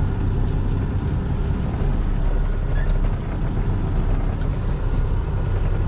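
Freightliner FLD semi-truck's diesel engine running at idle, a steady low drone heard from inside the cab.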